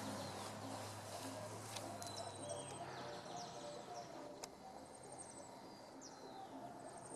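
Birds chirping faintly over outdoor ambience, with a low hum that stops about two and a half seconds in and a single sharp click a little past the middle.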